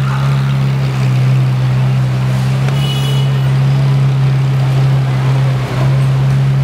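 A car engine running steadily at a constant speed, a deep even drone that dips briefly once near the end.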